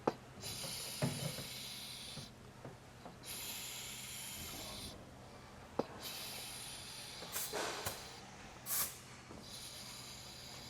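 Fluid pump being worked to push gear oil into the rear differential through the fill hole: four hissing rushes of one to two seconds each, with short pauses between them and a few sharp clicks.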